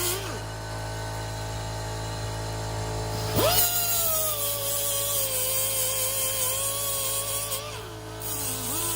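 Power tool motor whining under use, its pitch jumping up about three and a half seconds in, easing down, then dropping near the end.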